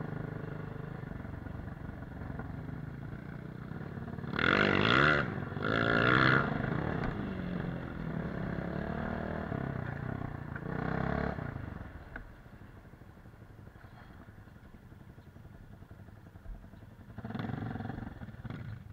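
Off-road motorcycle engine running, revved hard twice in quick succession about four and six seconds in and again near eleven seconds. From about twelve seconds it runs quieter, with one more short rev near the end.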